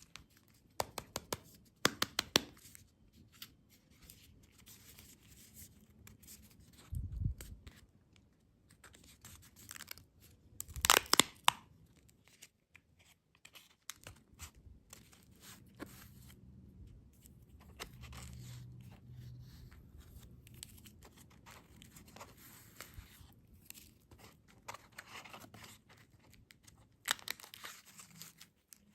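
Candy packaging being torn open and crinkled, in scattered crackles and clicks with a loud rustling tear about eleven seconds in and a dull thump a few seconds earlier.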